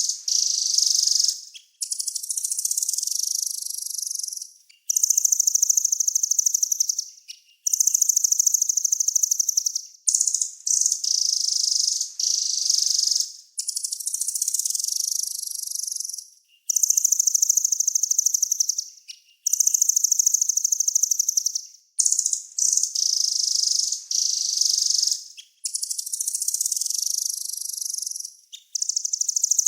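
Small songbird singing high-pitched, very rapid trills in repeated runs of about two to three seconds, with short breaks between them.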